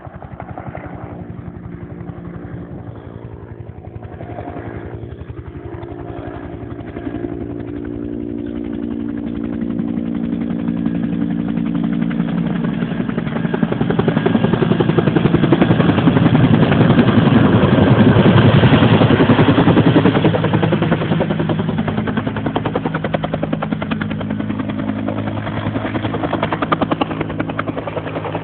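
Water-dropping helicopter approaching, its rotor beat and engine growing louder to a peak about two-thirds of the way through, then easing off a little.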